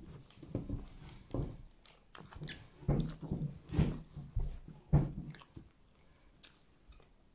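A person chewing a mouthful of doner meat in pitta bread close to the microphone, with irregular chewing sounds about every half second that die down after about five seconds.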